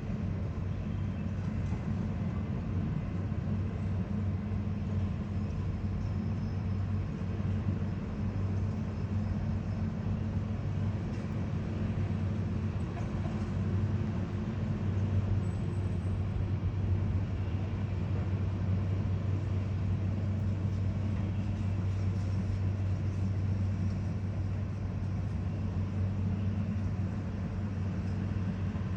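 Heavy engine running at a steady, unchanging low drone, like construction machinery working, with a constant hiss over it.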